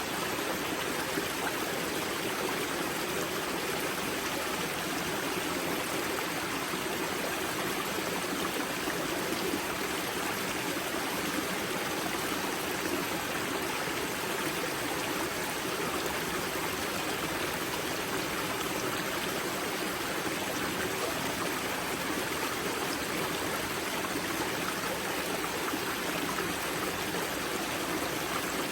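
Spring-fed mountain river flowing at its wellhead: a steady rush and babble of water over rocks.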